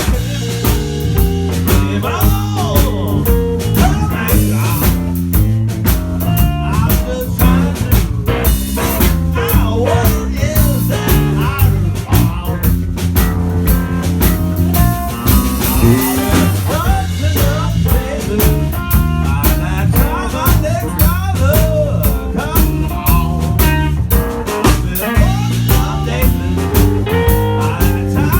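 Live blues band playing a song with a steady beat.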